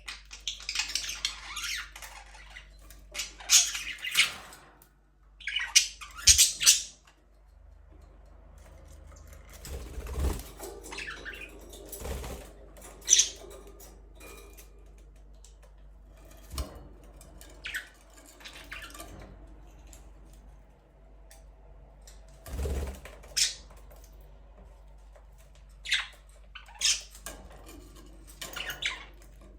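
Budgerigars giving short, scattered chirps and squawks, with a few soft low thuds in between.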